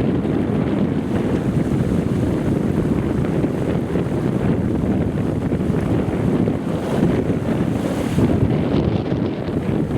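Strong wind buffeting the microphone: a dense, steady low rumble that rises and falls in gusts.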